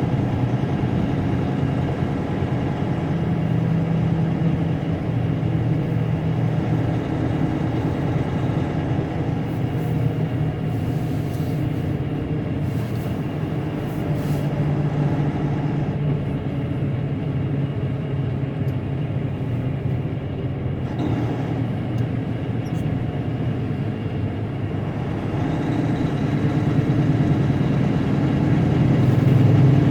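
Diesel engine of a semi truck running steadily while driving, heard from inside the cab, getting louder over the last few seconds.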